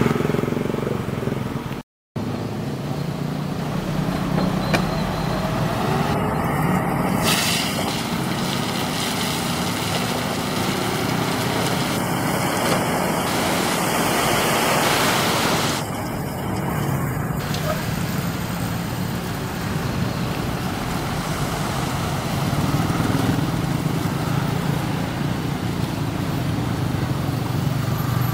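A Mitsubishi Fuso dump truck's diesel engine runs steadily under continuous outdoor road noise. The sound drops out completely for a moment about two seconds in.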